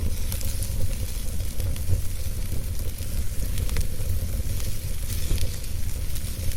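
Wood fire burning with a low steady rumble, a hiss and frequent small crackles and pops.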